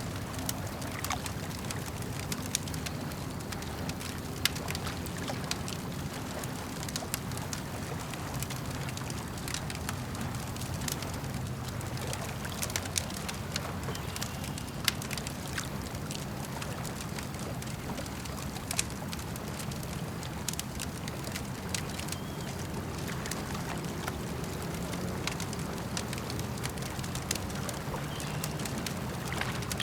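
Campfire crackling with many small pops and a few louder ones, over the steady gurgle of lake water.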